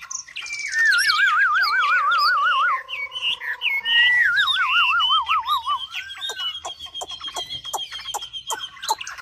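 A 'mi' songbird singing a long, varied song: two wavering warbled trills with quick whistled notes over them, then a rapid even high trill held through the last few seconds.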